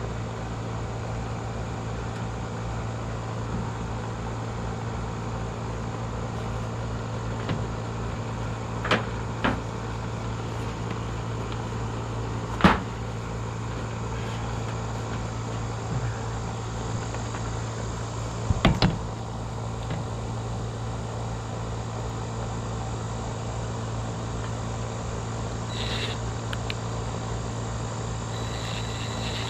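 Steady low mechanical hum throughout, with a few sharp clicks or knocks: two about nine seconds in, a louder one near thirteen seconds, and a quick cluster near nineteen seconds.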